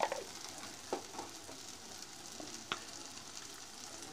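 Onion, tomato and green chillies frying in sesame oil in an aluminium kadai: a soft, steady sizzle with a few light ticks.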